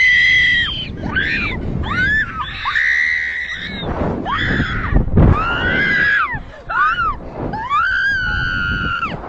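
A person screaming: a string of long, high-pitched screams, one after another, with short breaks between them.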